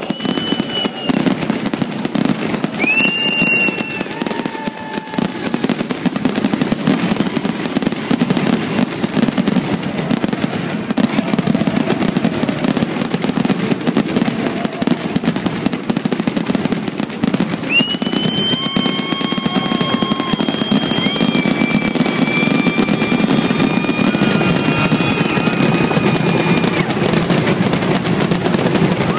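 Fireworks display: a continuous run of shell bursts with dense crackling and bangs, a little louder in the second half. High whistling tones rise and then hold for a few seconds at a time, once early and several times in the later part.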